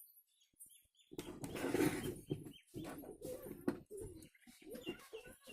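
Birds calling: a noisy burst about a second in, then repeated cooing and short high chirps.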